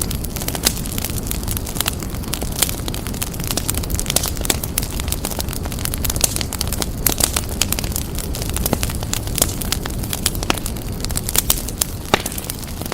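Fireplace fire crackling, with many irregular sharp pops and snaps over a steady low rumble of the flames.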